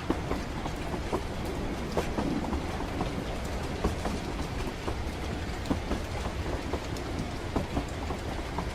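Steady low rumble of a moving train, with irregular clicks and rattles over it.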